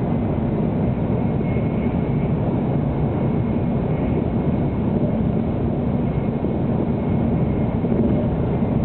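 Steady rumble and rush of a 700 Series Shinkansen running at speed, heard inside the passenger cabin.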